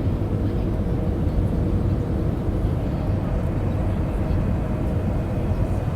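Steady cabin noise inside an Airbus A319 in flight: an even rumble of engines and airflow with a faint steady hum, with no changes.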